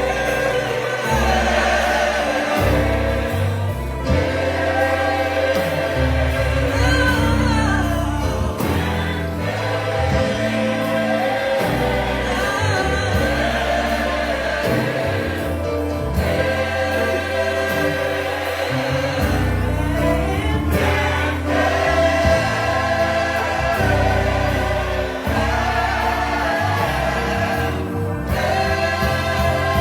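Gospel choir singing in sustained harmony with a bass line underneath, in phrases separated by short breaks.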